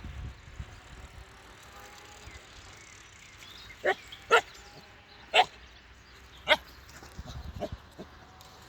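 A four-month-old husky puppy barking in short, sharp yaps: four loud barks between about four and six and a half seconds in, then a couple of fainter ones.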